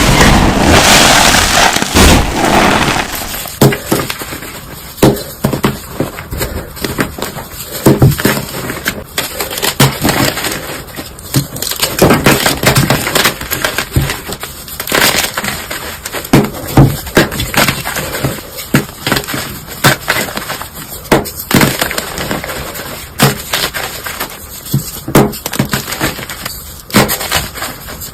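Close-up crushing of a brittle material: a dense crumbling rush for about the first three seconds, then irregular sharp cracks and crunches.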